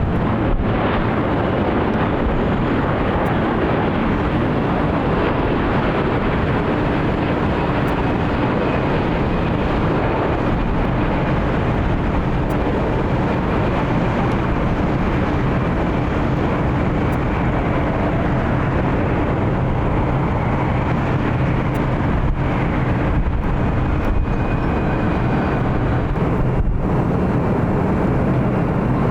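Jet airliner engines making a steady rushing noise with a faint underlying hum.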